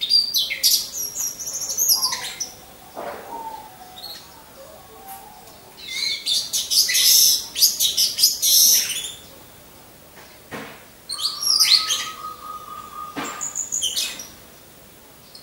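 Orange-headed thrushes singing: three bursts of high, fast-changing song separated by pauses, with one steady whistled note held for about two seconds in the last burst.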